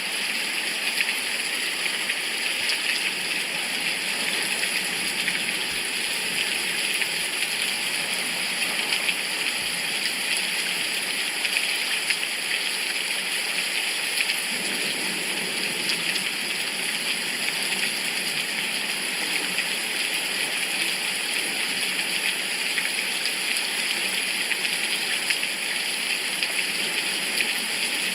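Steady rain falling, an even, unbroken hiss of drops with no single drip or thunder standing out.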